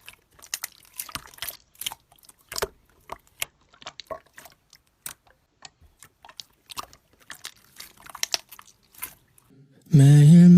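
Slime being squeezed and poked by hand, making a run of irregular small sticky clicks and crackles. Acoustic guitar music starts near the end.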